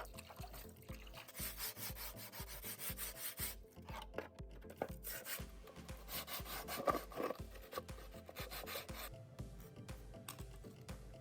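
Repeated abrasive rubbing strokes, as of hand sanding or filing a part, over background music with a steady bass beat.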